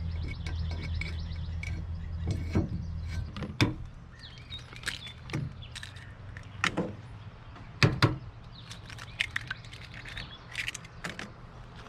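Birds chirping outdoors, mixed with a handful of sharp knocks and clunks, the loudest a double knock about eight seconds in. A low steady hum runs underneath and stops about four seconds in.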